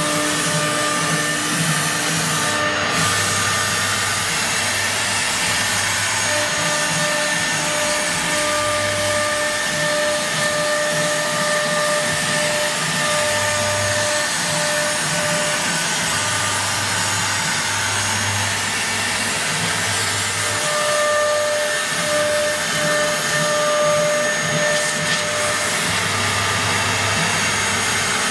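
CNC wood router running, with a steady rushing noise and a high pitched tone that cuts in and out every second or two.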